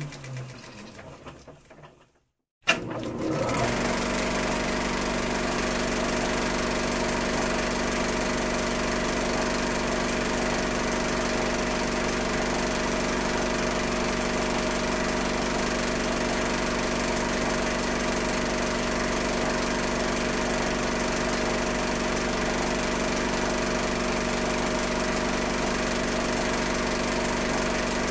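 Old film projector winding down, its motor pitch falling until it stops. About two and a half seconds in there is a sharp click, and the projector starts up again and runs steadily with a constant hum and a fast, even mechanical rattle.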